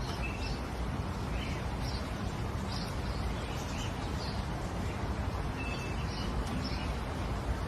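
Faint short bird chirps recurring every second or so over a steady outdoor background hiss.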